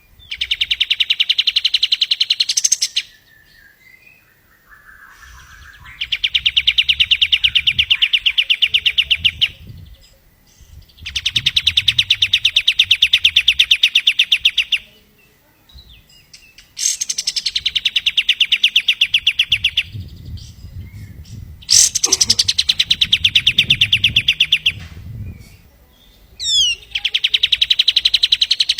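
Kapas tembak singing its song: a fast trill of evenly repeated notes lasting about three seconds, given about every five seconds, six times over.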